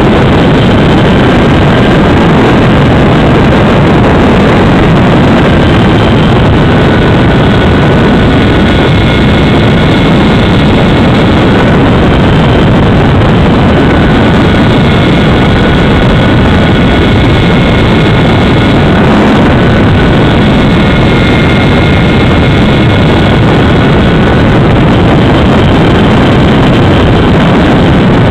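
Freewing Spacewalker RC model plane's electric motor and propeller running loud in flight, heard from on board with heavy wind rush over the microphone. A steady whine sits on the rushing noise and shifts slightly in pitch now and then.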